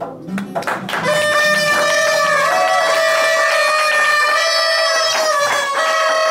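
Live music: plucked guitar notes, then from about a second in one long high note held over the guitar, stepping briefly up and back down partway through.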